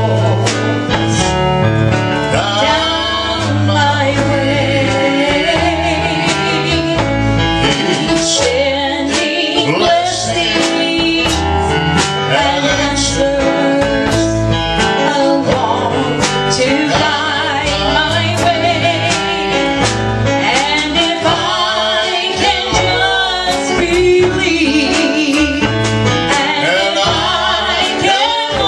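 A man and a woman singing a gospel duet with vibrato over a steady instrumental accompaniment that includes guitar and regular percussive strikes.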